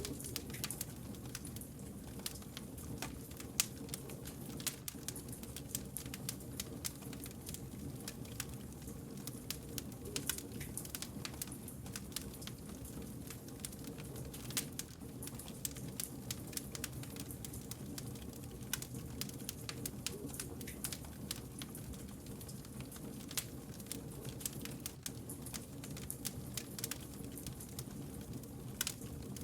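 Wood fire crackling: many quick, irregular pops and snaps over a steady low rumble of the flames.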